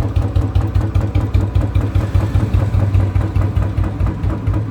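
Royal Enfield Bullet single-cylinder engine idling through a Long Punjab silencer, a steady, even low beat of exhaust pulses. The idle is set low and slow, for the classic old-model Bullet beat.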